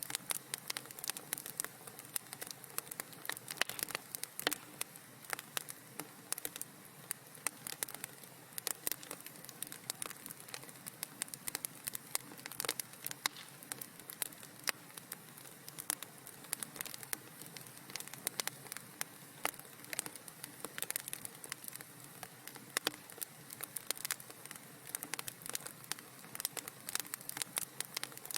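Fire crackling in a fireplace: frequent, irregular small pops and snaps over a soft steady hiss.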